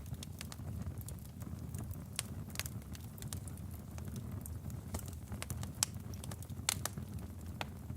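Wood fire burning in a fireplace: a low steady rumble of the flames with irregular sharp crackles and pops from the logs, two louder pops near the end.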